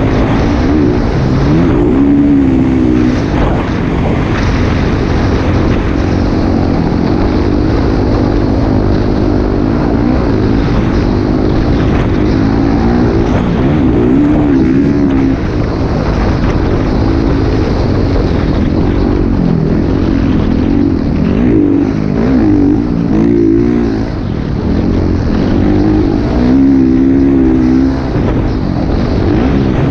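Motocross motorcycle engine revving up and down over and over as the rider works the throttle. A heavy low rumble lies under it throughout.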